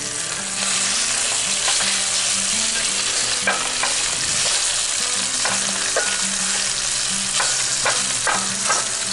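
Thick-cut bacon and breakfast sausage sizzling in a Lodge Blacklock cast iron skillet, with a slotted spatula chopping the sausage against the pan bottom in scattered clicks and scrapes.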